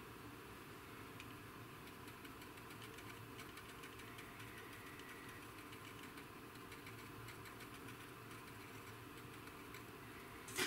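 Faint steady mechanical hum, with soft irregular ticks of a paintbrush dabbing and scrubbing oil weathering over the painted plastic model wing.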